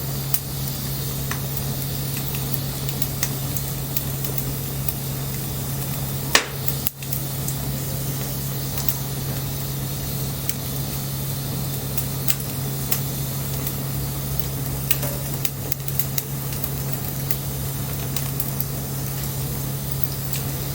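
Wood bonfire burning with a steady hiss and scattered crackles, one sharp pop about six seconds in standing out above the rest.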